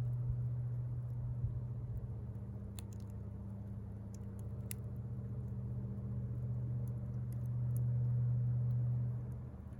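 A low, steady mechanical hum that swells louder near the end, with a few sharp crackles and pops from the burning wood of a fire.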